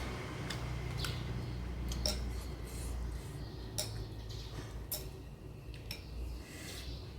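Close-up eating sounds from a mukbang of mixed noodles with shrimp and fish head: irregular sharp clicks, roughly one a second, of utensils and chewing, over a steady low hum.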